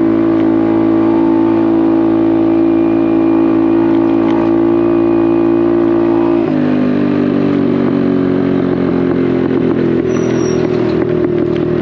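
Honda Navi's single-cylinder engine through a Vance & Hines exhaust, running steadily under way. About six and a half seconds in, its note drops suddenly to a lower pitch and carries on there.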